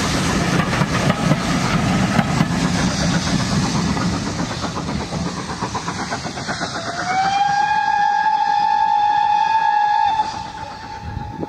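Passenger coaches rumbling and clicking over the rail joints as the tail of a train passes. About seven seconds in, a steam locomotive's whistle sounds one long, steady note that slides up in pitch as it starts and lasts about three seconds.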